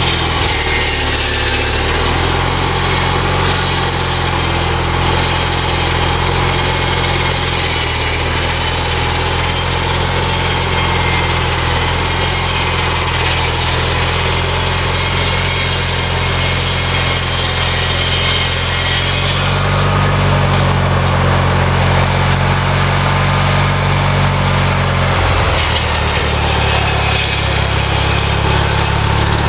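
Homemade sawmill driven by a small lawnmower engine, running steadily. A higher hiss over the engine fades about two-thirds of the way through, and the engine note shifts again near the end.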